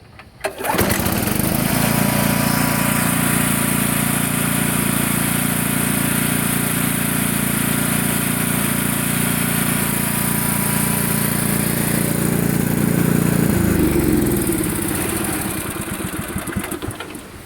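8 HP Briggs & Stratton single-cylinder engine on a 1980s Case XC80 rear-engine riding mower, recoil-started. It catches about half a second in, runs steadily, then is shut off: its pitch falls and it dies away near the end.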